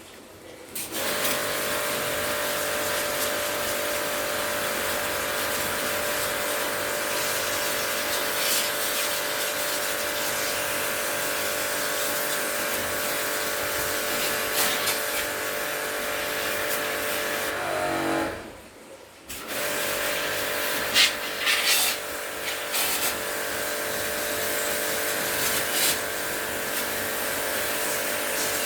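An electric motor running steadily with a hiss. It spins down to a stop about 18 seconds in and starts again a second later, with a few sharp knocks shortly after the restart.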